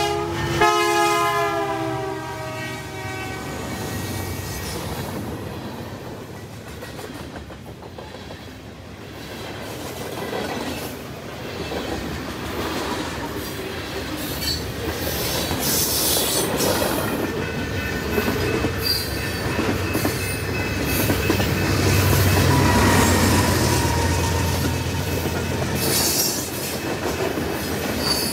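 Train horn sounding at the start, its chord falling slightly in pitch as it trails off over the first few seconds. Then the train rolls past with a steady rumble, wheel clatter over the rail joints and faint wheel squeal, growing louder toward the end.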